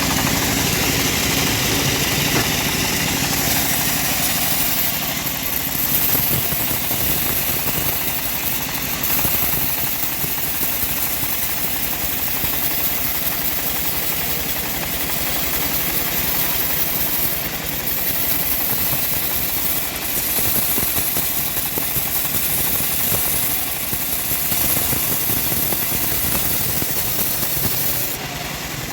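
Homemade bandsaw sawmill running steadily, a continuous machine drone with a loud hiss over it.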